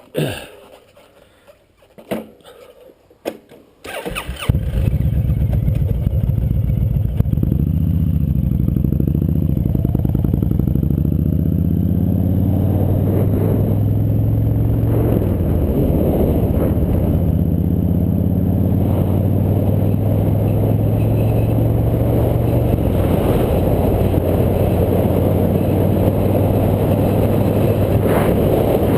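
A motorcycle engine starts about four seconds in, after a few short clicks and knocks, and then runs steadily as the bike pulls away, its pitch rising and stepping down with throttle and gear changes.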